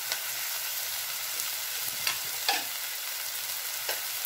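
Chicken and vegetables sizzling in a frying pan with a steady hiss as the remaining spices are stirred in. A few short knocks and scrapes of utensils against the pan come through it, the loudest about two and a half seconds in.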